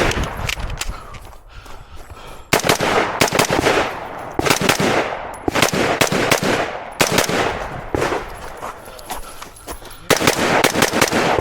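Rifle gunfire: quick strings of several shots, five groups a couple of seconds apart, each with echo ringing after it.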